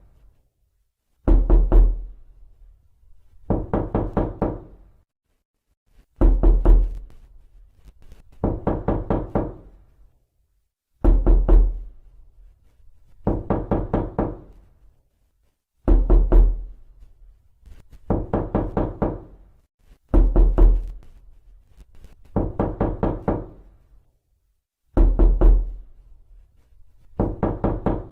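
Knocking on a door, repeated over and over: bursts of about five or six quick knocks, one burst every two to three seconds, with silence between.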